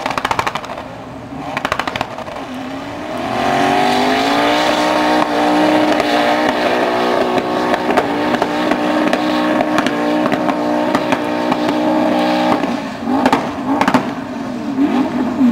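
Four-wheel-drive SUV engine at full throttle climbing a steep sand dune. The revs rise about three seconds in, hold high and steady under load, then waver and drop near the end.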